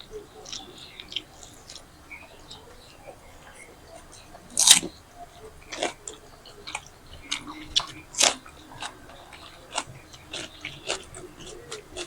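People eating: chewing and biting crunchy fried snacks, a run of short sharp crunches with two louder ones about four and a half and eight seconds in.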